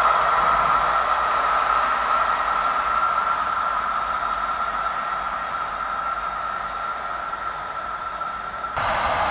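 Rolling noise of a receding electric passenger train, fading slowly, with a steady high-pitched hum over it. Near the end it cuts suddenly to the louder, deeper rumble of another train.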